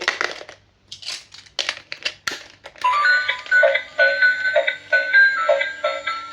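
Plastic toy packaging crinkling in a few short bursts, then, about three seconds in, a bright electronic chiming tune starts, repeating a short pattern of about two notes a second.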